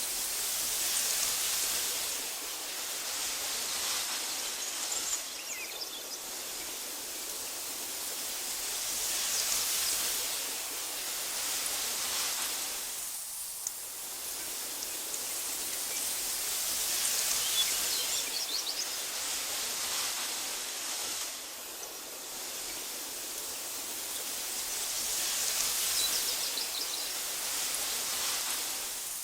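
Wind blowing through tall meadow grass: a steady hiss that swells and eases in slow gusts about every eight seconds, with a few faint high chirps.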